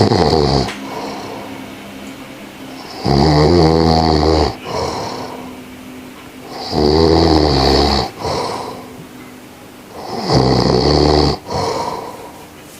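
Loud snoring: a long, low, rattling snore roughly every three and a half seconds, with a hiss between the snores.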